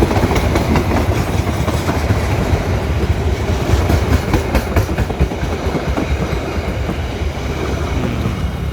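Train passing close by, a heavy rumble with its wheels clacking over the rails, the clacks thickest about halfway through, easing off slightly near the end.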